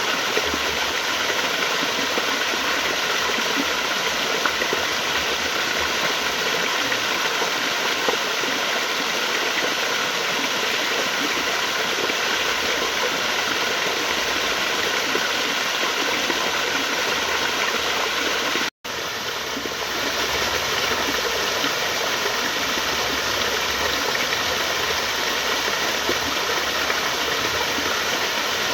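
Flowing water rushing in a steady, even wash. About two-thirds of the way through, it cuts out for a split second and resumes slightly quieter for a moment.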